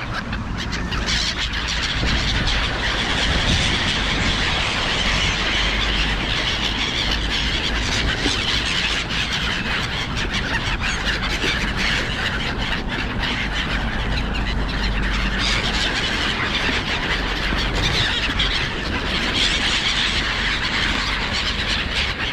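A large flock of gulls squealing and calling over each other in a dense, unbroken din as they crowd in on thrown food, with a low rumble underneath.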